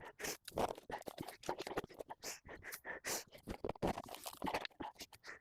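Rapid, irregular scraping and scratching strokes, several a second, of hand clean-up work on grass and soil.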